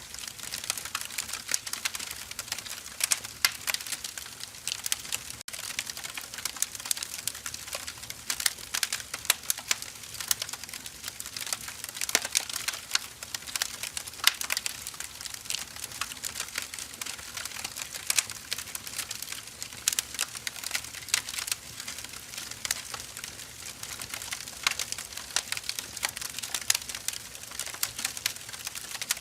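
Firewood burning, with dense, irregular crackles and pops over a soft hiss.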